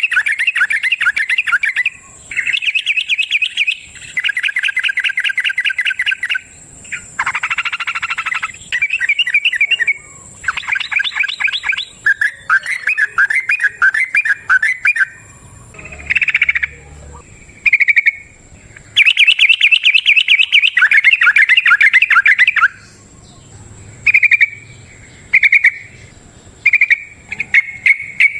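Yellow-vented bulbul (trucukan) singing long, fast trilled phrases of rapid repeated notes, each a few seconds long, breaking into shorter separate calls near the end. A faint steady high whine runs underneath.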